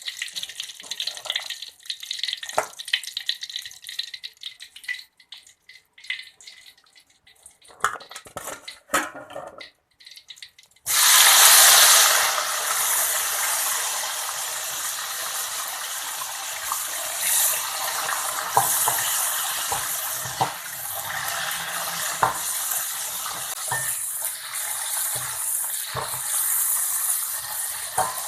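A few utensil clicks and knocks, then about eleven seconds in food goes into hot oil with a sudden loud sizzle that settles into steady frying.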